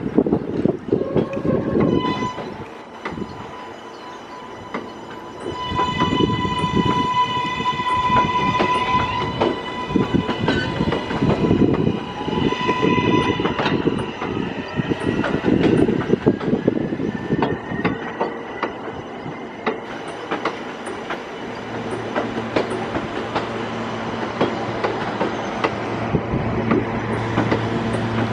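New York City subway L trains moving through the station, wheels clicking over rail joints. A high electric whine from the train holds for several seconds, then glides in pitch and fades about halfway through. A low steady hum sets in near the end.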